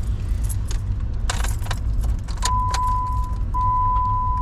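Keys jangling as the key is worked in the ignition of a Jeep Wrangler that gives no crank at all. From about two and a half seconds in, a steady electronic warning tone sounds, breaking off once briefly, over a steady low rumble.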